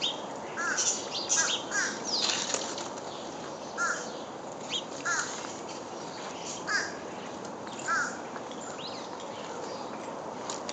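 Crows cawing, a series of short calls spaced a second or so apart, over a steady outdoor hiss.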